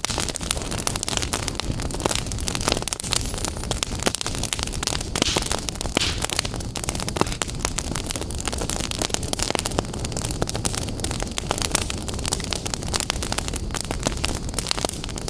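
Wood fire burning in a fireplace, with a steady hiss and dense, rapid crackles and pops throughout, and a brief rise in hissing about five seconds in.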